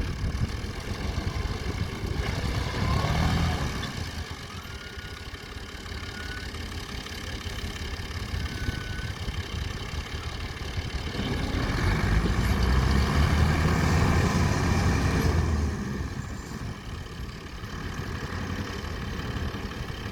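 Farm tractor's diesel engine running steadily, swelling louder briefly about three seconds in and again for several seconds past the middle.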